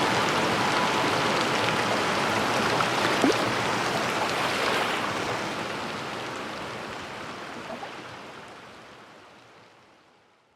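Steady rain noise with no music, fading out gradually over the last five seconds or so to silence.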